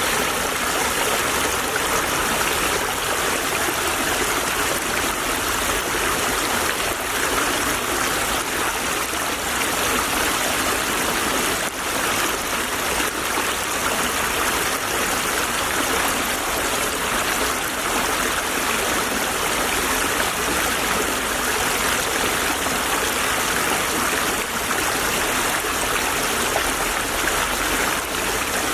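Small stream of water flowing and babbling steadily over stones.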